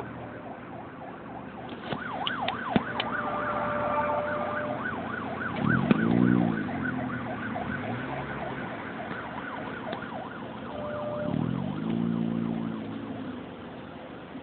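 Emergency vehicle siren yelping in fast rising-and-falling sweeps for several seconds, over steady road traffic noise. A deeper tone swells and fades twice, about six and twelve seconds in.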